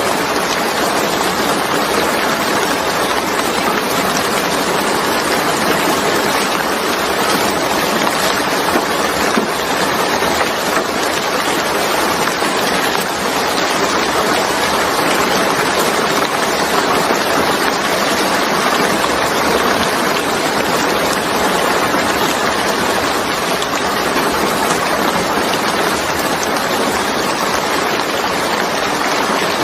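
Heavy rain falling steadily, an even rushing hiss with no separate drops or other events standing out.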